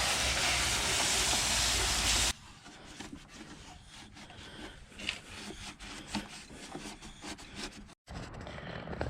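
Water spray hissing steadily as engine cleaner is rinsed off a scooter engine, cutting off suddenly about two seconds in. Faint clicking and rubbing follow.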